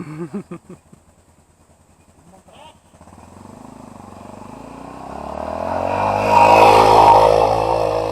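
Brief voice sounds at the start over a faint idling engine. Then an off-road motorcycle engine comes in from about three seconds, revving and growing steadily louder to a peak roughly two-thirds of the way through, then easing off.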